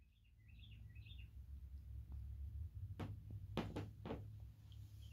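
Faint room sound: a bird gives a quick run of high chirps in the first second, over a steady low hum. A few soft, sharp taps come around three to four seconds in.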